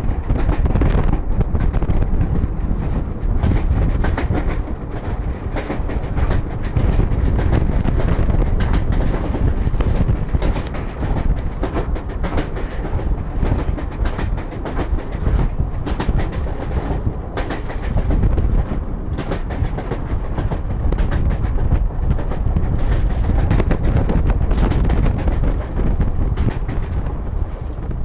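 Indian Railways DC electric multiple unit (EMU) running at speed, with a steady heavy rumble and a rapid, irregular clatter of wheels over rail joints.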